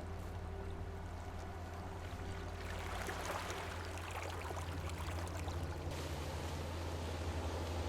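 Water trickling and washing among shoreline rocks over a steady low hum, with small ticks and crackles from about two and a half seconds in.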